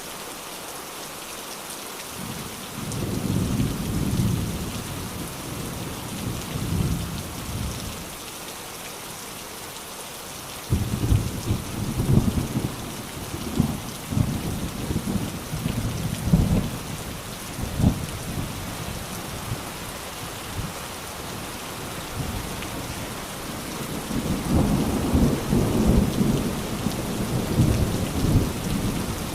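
Steady rain falling, with thunder rolling over it. One rumble swells a few seconds in. About eleven seconds in a sudden crack starts a longer crackling roll, and another rumble builds near the end.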